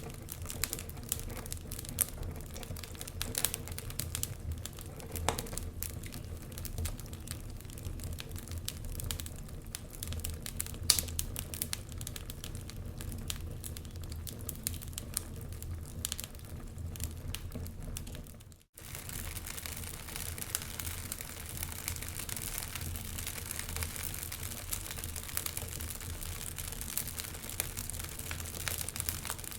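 Wood fire crackling in a stone fireplace, with irregular sharp pops and snaps over a steady low rumble of wind. The sound drops out for a split second about two-thirds of the way through, then carries on with more hiss.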